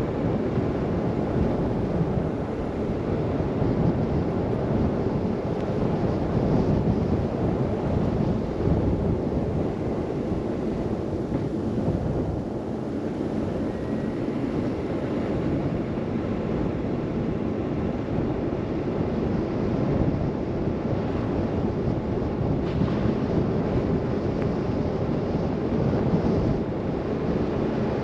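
Steady rushing noise of blizzard wind, buffeting the microphone.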